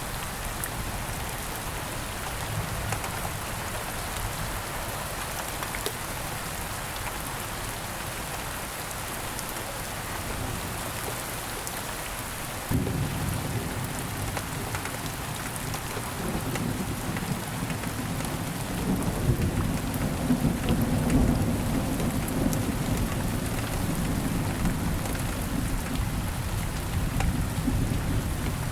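Steady rain falling, with a low rumble of thunder that sets in abruptly about halfway through, swells a few seconds later, then carries on more softly.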